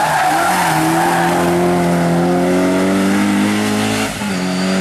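Hill-climb race car engine pulling hard under acceleration, its pitch rising slowly. About four seconds in it briefly dips at a gear change, then pulls again at a lower pitch.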